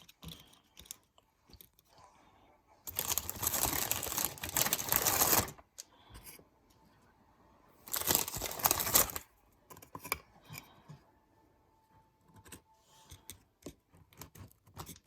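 Packaging rustling and tearing in two bursts, a longer one about three seconds in and a shorter one about eight seconds in, with light clicks and knocks of handling in between.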